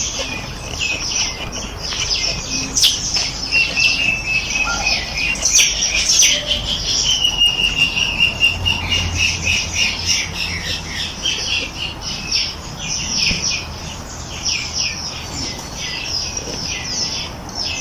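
Many songbirds singing and chirping at once, a dense overlapping chorus of quick high notes, with one long even whistled note held for several seconds in the middle.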